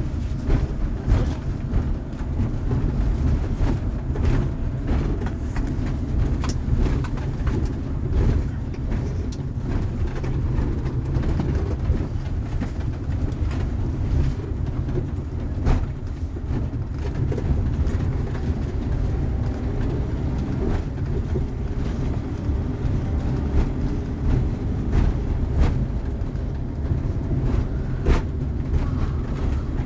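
Inside a moving road vehicle's cabin: a steady low road-and-engine rumble with scattered small rattles and knocks.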